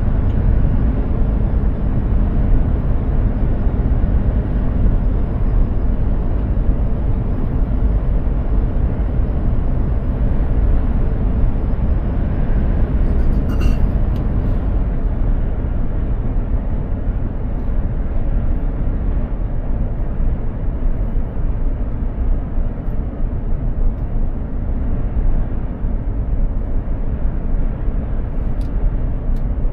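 Mercedes-Benz Actros truck driving at steady speed: a continuous low engine and road rumble. A brief click comes about halfway through.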